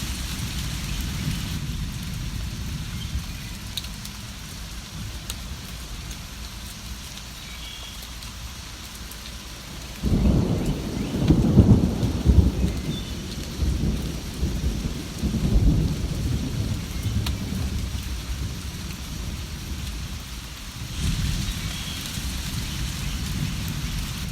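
Steady rain with a low background rumble. About ten seconds in, a thunderclap breaks in suddenly and rolls on in several waves for about seven seconds before fading back under the rain.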